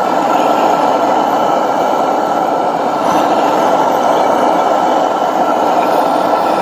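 Steady rushing noise of a heating tool blowing on a seized outboard's cylinder to free it, with a faint steady whine; it cuts off abruptly at the end.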